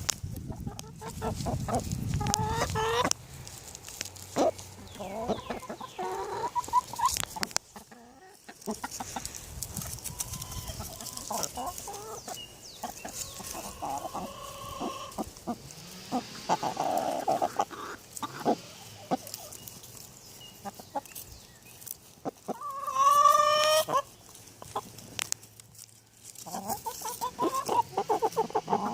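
A Rhode Island Red rooster and his hens clucking, with runs of rapid repeated clucks from the rooster calling the hens to food. The loudest run comes about two-thirds of the way through, and short sharp ticks fall between the calls.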